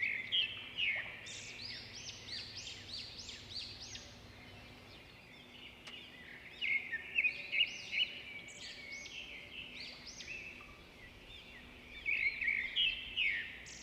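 Small songbirds chirping: a chorus of quick, high, overlapping chirps, with louder flurries at the start, about halfway through and near the end.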